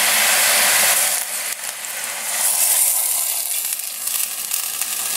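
Chicken pieces with shiitake mushrooms, garlic and ginger sizzling in a hot stainless steel pot: a steady frying hiss, loudest in the first second, dipping just after one second and building again from about two and a half seconds in.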